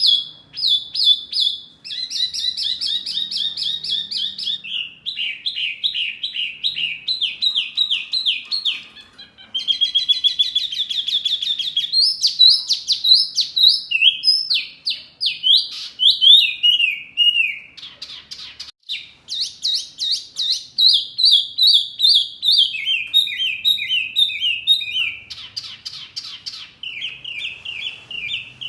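Songbird singing fast, high trills of rapidly repeated chirps, switching to a new run of notes every second or two, with brief breaks about nine and eighteen seconds in.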